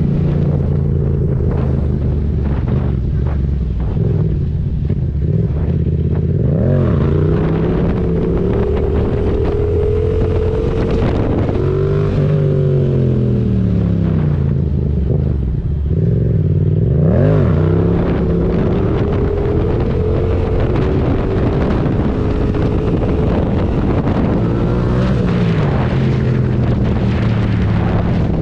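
Yamaha MT-07's 689 cc parallel-twin engine running through a Mivv exhaust with the dB killer removed, loud. Its pitch rises and falls repeatedly as the bike is ridden hard, with sharp revs at about a quarter of the way in and again past halfway.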